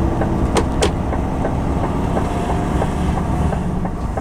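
Steady engine and road rumble inside a moving lorry's cab, with a regular light ticking about three times a second and two sharp clicks a little under a second in.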